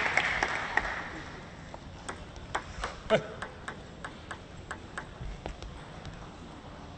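Crowd applause dying away in the hall, followed by a run of light, sharp clicks of a table tennis ball, about three a second for a few seconds.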